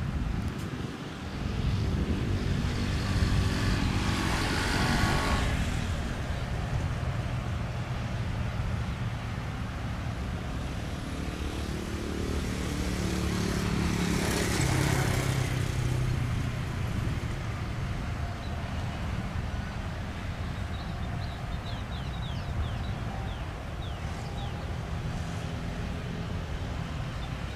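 Vehicles passing twice over a steady low engine rumble, each pass swelling and fading over a few seconds.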